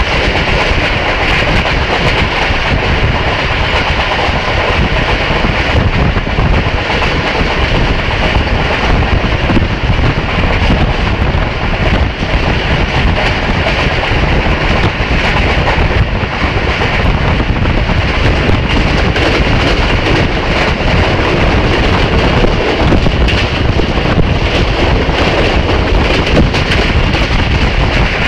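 Pakistan Railways train running at speed, heard from aboard: a steady rumble and rattle of the wheels on the rails.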